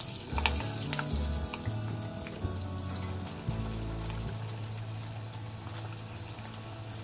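Falafel frying in hot oil: a steady sizzle with scattered crackles, setting in at the start, over background music.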